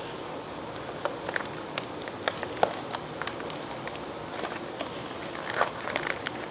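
Orders being packed by hand: scattered light clicks, taps and rustles of packaging and printed plastic pieces being handled over a steady hiss, with a sharper knock about two and a half seconds in.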